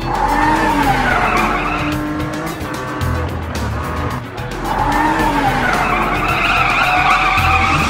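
Cartoon sound effect of a race car engine revving with tyres skidding, in two long bursts of wavering, rising and falling pitch, over background music.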